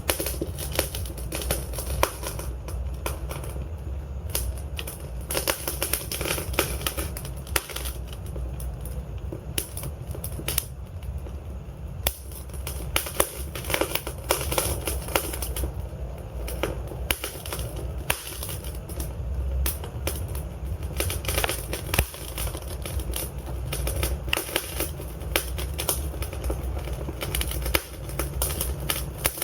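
Wood fire burning in a fireplace: irregular crackles and sharp pops from the logs over a steady low rumble of the flames.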